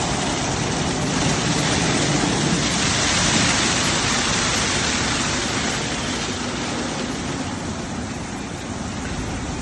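Water jets of an automatic rollover car wash spraying, a steady rain-like hiss that is loudest about three seconds in and eases off after about six seconds.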